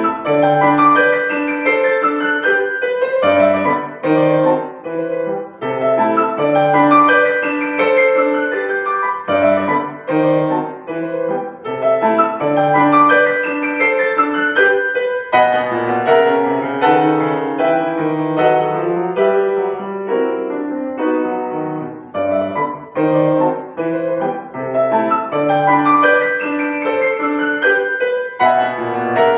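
Acoustic piano playing a classical piece in phrases, each note clearly struck and ringing, with brief breaks between phrases.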